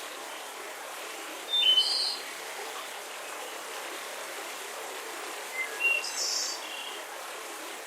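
Forest birds chirping over a steady soft breeze: a short burst of calls about one and a half seconds in and another around six seconds in.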